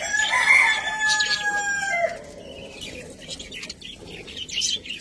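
One loud, long bird call lasting about two seconds, its pitch held nearly level and dipping slightly, followed by short, high budgerigar chirps.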